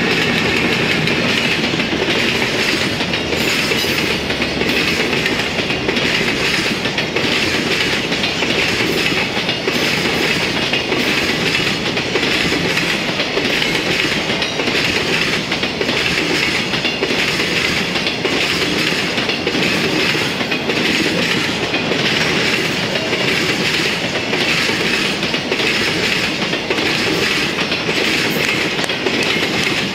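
Passing container freight train hauled by a JR Freight EF210 electric locomotive, followed by Koki container flat wagons. A steady loud rumble of steel wheels on rail, with a regular clickety-clack as the wheelsets cross rail joints.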